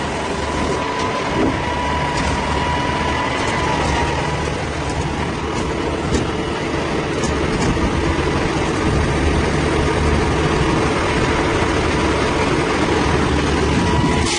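A heavy engine running steadily under load, with a thin steady whine above the low hum and a few faint clicks.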